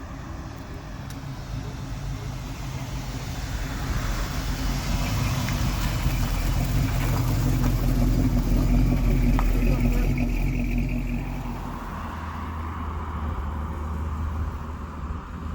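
A car's engine running as it drives past, building to loudest about eight to nine seconds in and then fading. Another engine's lower, steady note carries on after it.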